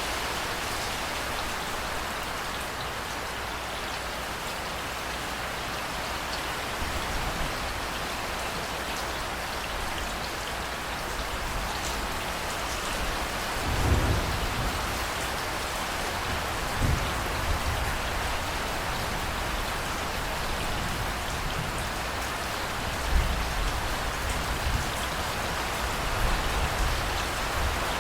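Steady heavy rain hissing, with low rolls of thunder rumbling several times, the strongest about halfway through and another a little past two-thirds of the way.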